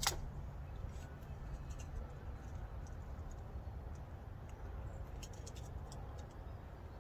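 Handling of small snowblower carburetor parts: one sharp click right at the start, then scattered light ticks over a steady low rumble.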